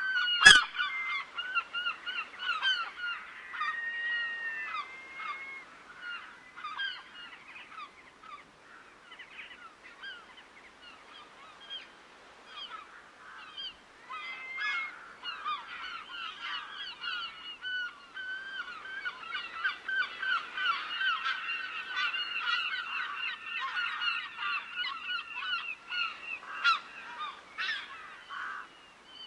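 A large flock of geese calling continuously, many short overlapping honks that grow denser and louder in the second half. A sharp click comes about half a second in.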